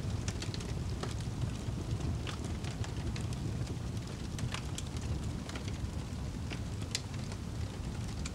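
Wood fire in a fireplace crackling, with irregular sharp pops over a steady low rumble of the burning; one louder pop about seven seconds in.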